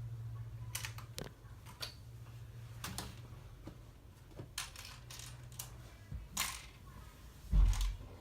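Plastic LEGO pieces clicking and rattling as they are handled, in scattered single clicks, with a louder thump near the end.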